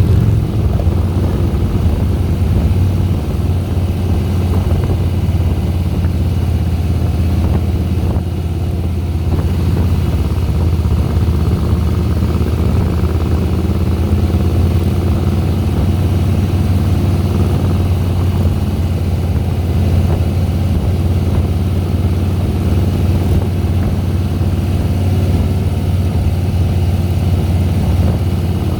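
Harley-Davidson Softail Deluxe's V-twin engine running steadily as the motorcycle climbs, a constant low drone with little change in revs.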